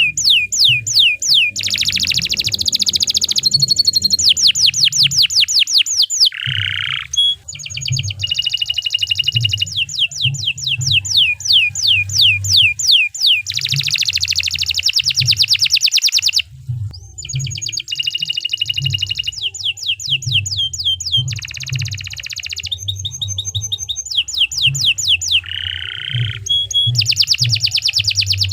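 Domestic canary singing a long, continuous song of fast repeated rising notes and rolling trills, with only brief pauses.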